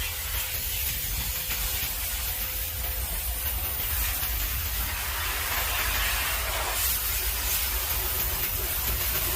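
High-pressure water spray hissing steadily from a car-wash wand, over a low rumble.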